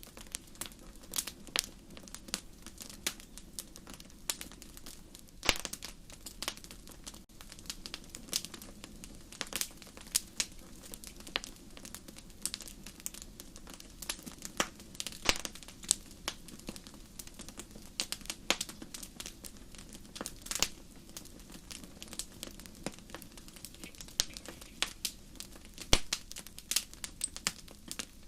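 Campfire crackling: irregular sharp pops and snaps, several a second, over a low steady rumble of the flames.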